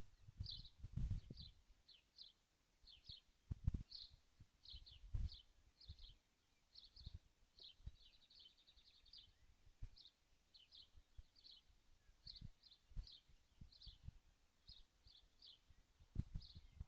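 Faint, quick high chirps from a small bird, about two or three a second, with a short buzzy trill about eight seconds in. Low dull thumps sound now and then beneath them.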